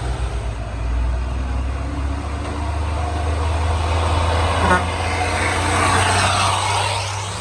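Heavy truck diesel engines run low and steady in road traffic. A short horn toot comes about halfway through, and a broader rushing noise swells and fades near the end.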